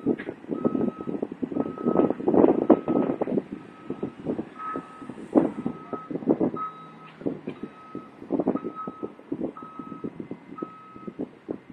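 A vehicle's reversing alarm beeping at a steady single pitch, about three beeps every two seconds, stopping near the end. Louder irregular gusts of wind buffet the microphone throughout.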